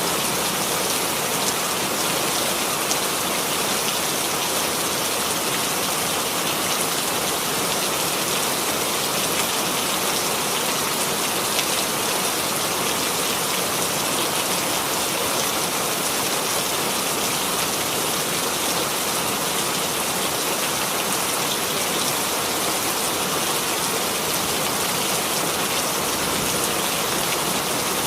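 Steady rain falling, a dense even hiss of many drops on a surface.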